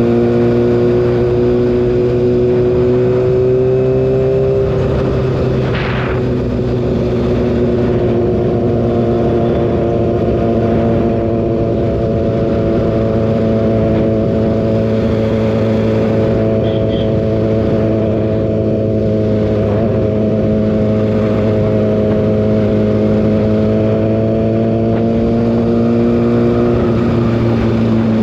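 Kawasaki ZX-6R inline-four engine running at a steady highway cruise. Its note drops briefly about five seconds in, then holds steady, and falls again near the end.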